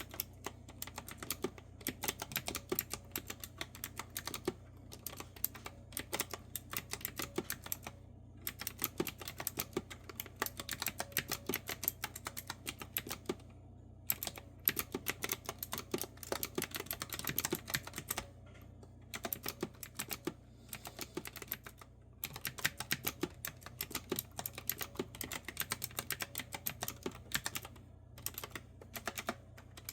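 Clicky retro-style keyboard with round keys being typed on in quick, steady runs of keystrokes, broken by short pauses every few seconds.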